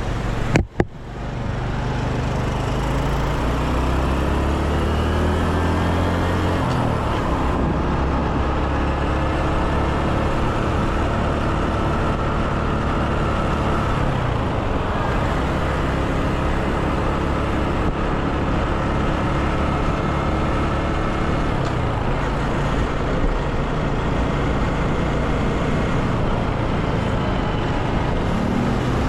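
Motorcycle engine running while riding, its pitch rising as it speeds up through the gears in the first few seconds and again near the end, over steady road and wind noise. A sharp knock right at the start.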